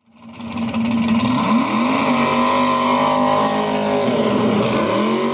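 A car engine revving: a steady high engine note that climbs in pitch about a second and a half in, then dips and climbs again near the end.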